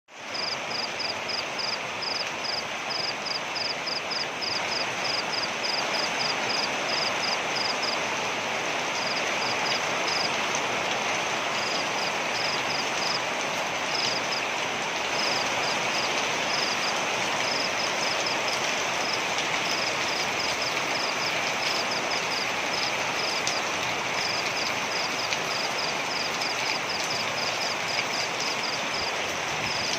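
Waterfall: a steady, even rush of falling water. Over it, a small animal gives a high chirp about three times a second, in runs broken by short pauses.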